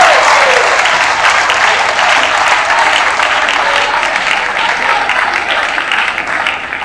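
Audience clapping, with a few shouting voices in the first second. The clapping dies away towards the end.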